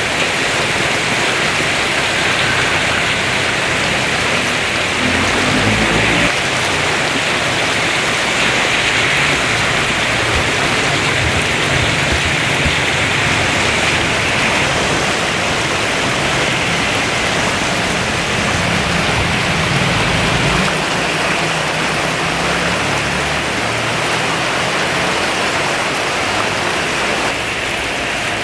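Heavy rain pouring down steadily. A low rumble swells up twice.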